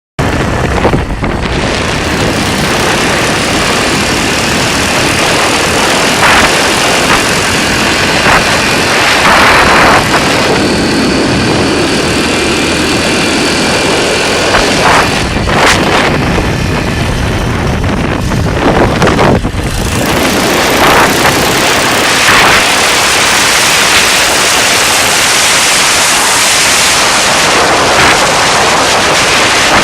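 A vehicle engine running, loud and close to the microphone, with a few brief louder swells. The owner is unsure whether the engine sounds healthy.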